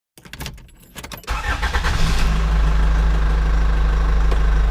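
An engine starting up: a short spell of crackling, then it catches about a second and a half in and settles into a steady idle.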